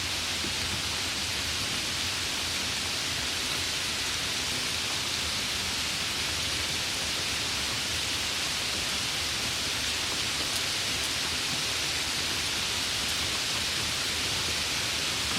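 Steady, even rain, falling without a break.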